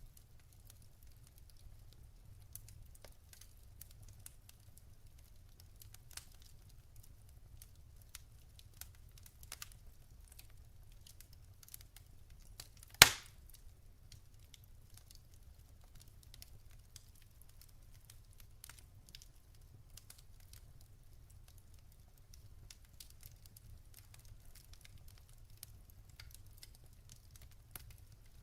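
Wood fire burning in a fireplace: a low rumble with scattered small crackles, and one sharp, much louder pop about halfway through.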